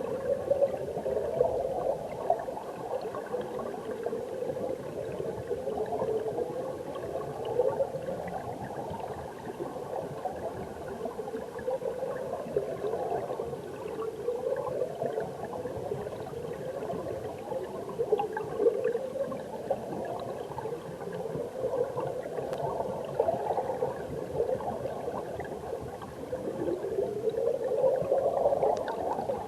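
Mountain stream water heard from underwater: a steady churning and gurgling of current and bubbles, muffled, with a pitch that keeps wavering and sweeping upward.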